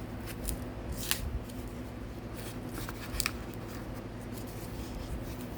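Hand-turned diamond painting pens being handled: a few short light clicks and taps, spaced irregularly, over a steady low hum.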